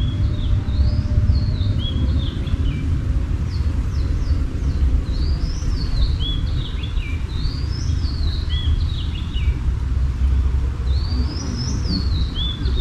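A songbird singing repeated short phrases of chirps that rise and fall in pitch, over a steady low rumble.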